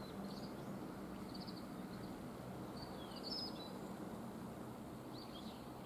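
Birds chirping in short high calls, a few times, over a steady low background hum.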